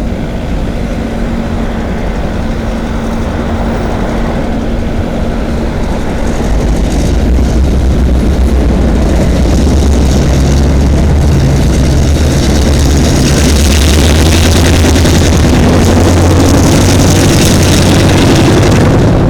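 CN freight train's diesel locomotives approaching and passing, the deep engine drone growing steadily louder about a third of the way in, joined by rising wheel-on-rail rushing noise.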